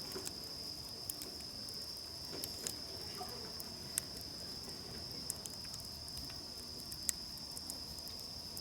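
A steady high trill of singing insects, with the crackle of a wood campfire: scattered sharp pops, two louder ones about four and seven seconds in.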